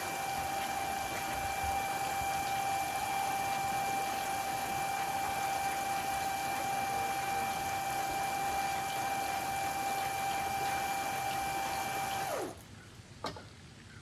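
Electric water pump draining a bird pool, running steadily with a high whine over rushing water. About twelve seconds in it is switched off: the whine drops in pitch as the motor winds down and the sound stops, followed by a single click.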